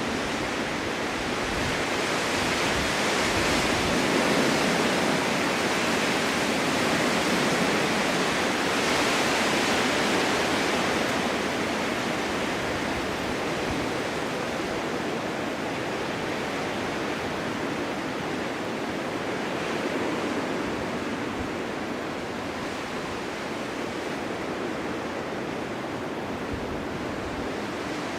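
Strong winter wind blowing steadily in a snowstorm, a dense rushing noise that builds over the first few seconds, peaks around four to ten seconds in, then eases a little.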